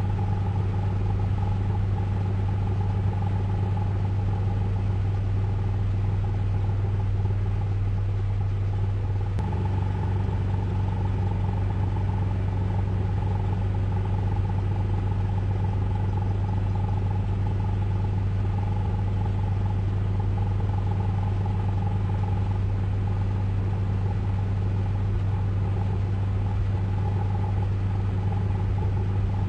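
Ryko Radius in-bay automatic car wash running: a steady low mechanical drone with a faint steady whine above it, shifting slightly about nine seconds in.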